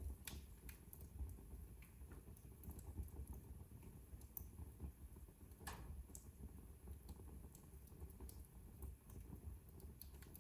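Wood fire crackling softly in a fireplace: scattered, irregular small pops and snaps, one stronger pop a little past halfway, over a faint low rumble.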